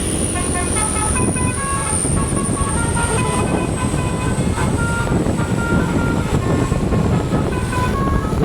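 Truck's basuri V3 musical horn playing a tune of short stepped notes that change several times a second, over a steady low rumble.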